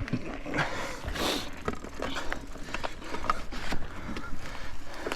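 Mountain bike riding over a dirt trail: tyre noise on the ground with scattered clicks and rattles from the bike, and a brief louder hiss about a second in.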